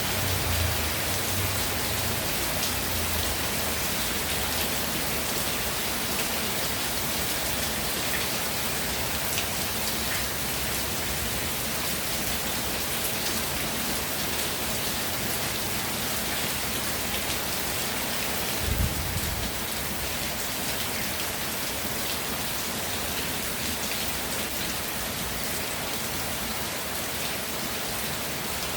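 Steady rainfall: a dense, even hiss of falling rain with scattered individual drops. A brief low thump comes about two-thirds of the way through.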